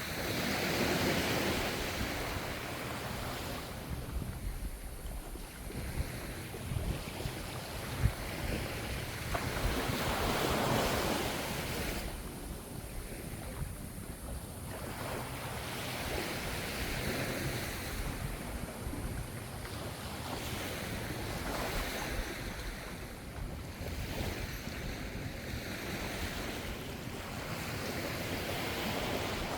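Ocean waves breaking and washing ashore, the surf swelling and fading every few seconds, with wind rumbling on the microphone. A single brief thump about eight seconds in.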